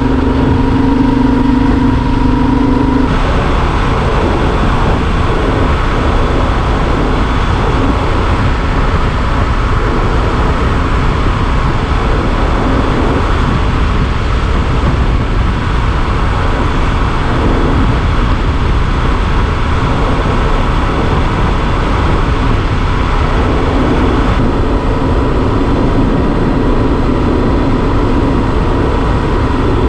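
Yamaha Super Ténéré motorcycle riding along: a steady engine drone, then, about three seconds in, a sudden change to mostly wind and road rush with the engine underneath.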